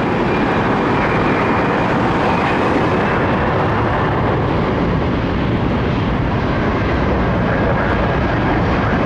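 Boeing 767-400 jet airliner passing close on its landing, a loud, steady rush of twin turbofan engine noise with a faint high whine that slowly drops in pitch.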